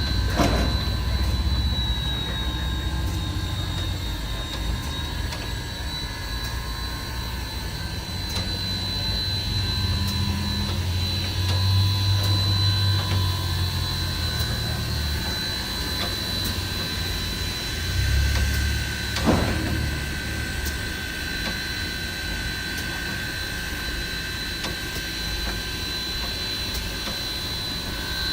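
Durango & Silverton steam locomotives running with a steady rushing hiss and a low rumble. The rumble swells twice, and there is a single sharp knock about two-thirds of the way through. Steady high whining tones run underneath.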